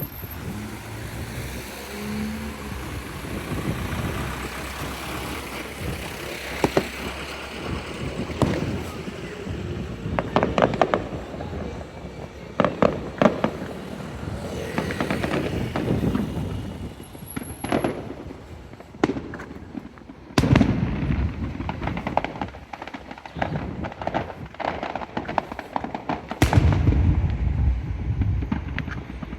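Fireworks going off: a run of sharp bangs and crackling bursts, with two heavier low booms in the last third.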